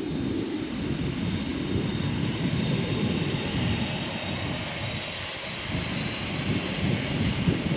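Boeing 747-8F freighter's four GEnx-2B turbofan engines running for takeoff: a steady rumble with a faint high whine on top.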